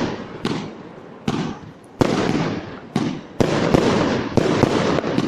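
Fireworks display going off: a string of sharp bangs, each followed by a rumbling echo, that thins out for a moment about half a second in, then comes thick and fast again, several bangs a second.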